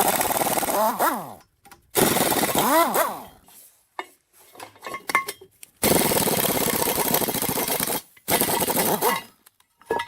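A handheld power tool running in four short bursts with pauses between them, the motor's pitch dropping as it winds down after the first two.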